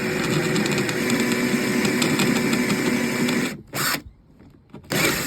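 Power drill running steadily for about three and a half seconds, drilling out a screw hole to take a bigger screw, then two short bursts of the drill.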